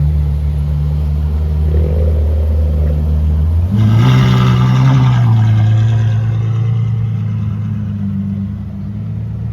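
A car engine running with a deep, steady note, then revving up sharply about four seconds in as the car accelerates away, the sound slowly fading afterwards.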